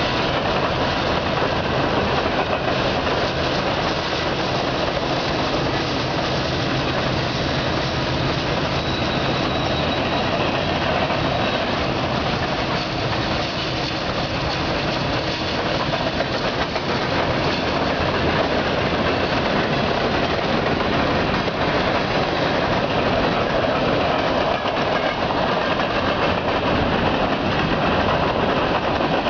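Freight cars of a coal train rolling past close by: a loud, steady rumble and clatter of steel wheels on the rails, with a low steady hum underneath.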